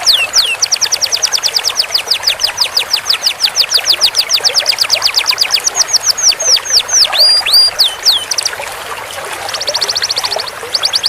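Domestic canary singing a long roll: a rapid trill of repeated down-slurred whistled notes, about seven a second, held for several seconds. It breaks into a few slower notes, then a short, faster, softer trill near the end.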